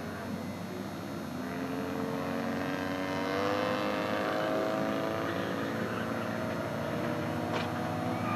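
Engines of several skid-plate race cars running and revving, one climbing steadily in pitch for a few seconds, over a steady noisy rush. A short sharp knock near the end.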